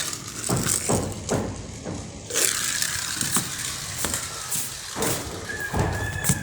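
Plastic toys being handled: a string of irregular clicks, knocks and rattles, with a thin, steady high tone starting near the end.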